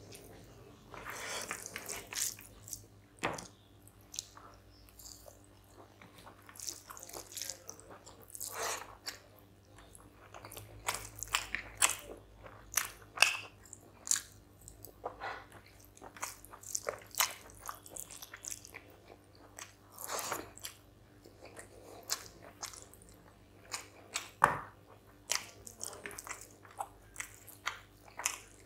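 Close-miked eating: a man chewing mouthfuls of rice and chicken curry with many irregular wet mouth smacks and clicks, while his fingers work rice into the curry on the plate.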